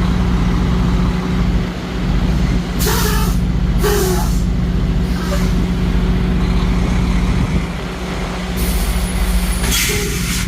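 Semi-truck's diesel engine running steadily, with four short hisses of compressed air from the air brake system, two about three seconds in and two near the end.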